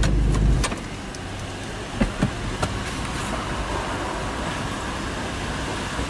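Audi R8's engine idling with a low drone that cuts off suddenly under a second in as it is switched off. A few short clicks follow about two seconds in as the driver's door is opened, over steady traffic noise.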